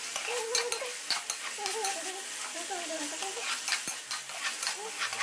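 Chicken pieces sizzling as they fry in oil in a metal karahi, stirred with a metal spoon that clicks and scrapes against the pan many times. This is the bhuna stage, frying the chicken so its raw smell cooks off.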